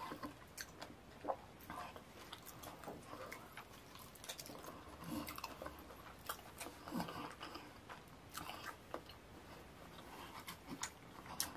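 A person chewing fufu with slimy ogbono soup eaten by hand, heard as wet chewing, irregular clicks and squelches.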